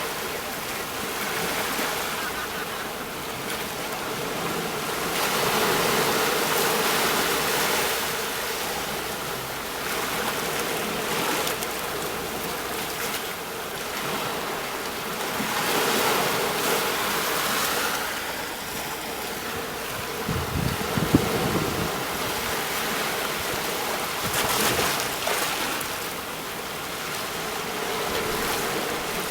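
Sea waves breaking on a shore: a steady wash of surf that swells and ebbs every few seconds. A brief low thump comes about two-thirds of the way through.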